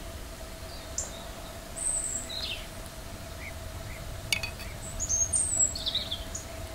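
Small birds chirping outdoors in short, high, scattered calls, busiest near the end, over a faint steady hum and low background rumble. One sharp click a little past four seconds in.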